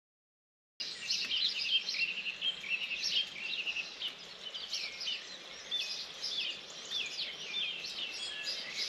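Birds singing outdoors, several short chirps and whistled notes overlapping, over a faint steady background hiss; it starts about a second in.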